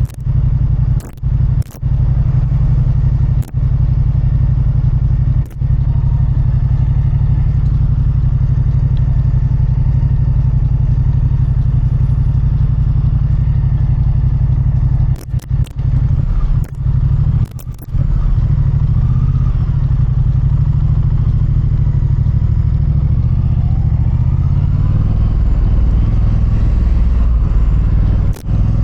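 Motorcycle engine running under way, heard from the rider's own bike, with the revs stepping up and down in the second half and rising near the end. The sound cuts out for a moment several times early on and around the middle.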